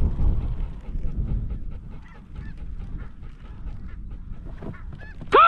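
Snow geese calling as a flock, many short overlapping honks, over heavy wind rumble on the microphone that eases after the first couple of seconds.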